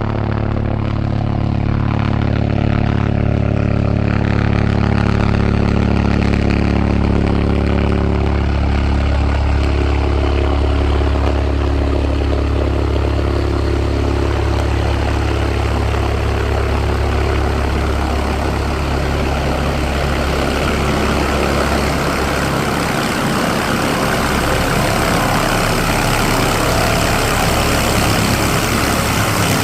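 Airbus H145 (BK117 D-3) helicopter running loud and steady: a low drone from the rotor and twin turboshaft engines. From about a third of the way in a broad rushing noise builds, and by the second half the drone gives way to it.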